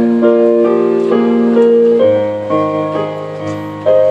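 Piano-style keyboard playing the slow introduction of a ballad, single notes struck about twice a second over held low chords.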